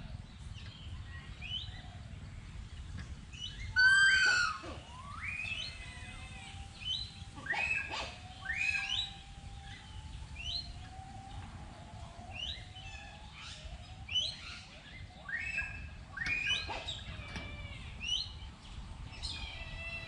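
Birds calling: many short chirps that sweep down in pitch, repeated every second or so, with a louder call about four seconds in, over a low steady rumble.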